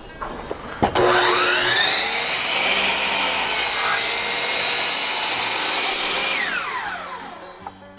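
Cordless circular saw starting with a knock and a rising whine about a second in, running steadily through a cut in a wooden board, then winding down with a falling whine near the end.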